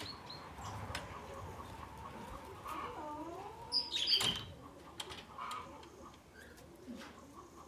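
Birds calling: a run of small repeated chirps, a lower call that dips and rises about three seconds in, and a short burst of louder high chirps about four seconds in.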